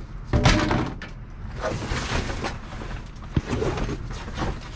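Irregular bumps, scrapes and rustling of junk being handled and shifted around inside a dumpster, with one sharp knock a little past the middle.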